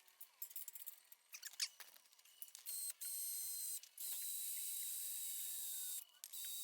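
A few clicks and rattles, then a DeWalt 20V cordless drill running at speed with a steady high whine as it bores a hole through steel. It runs in several stretches with short pauses between them.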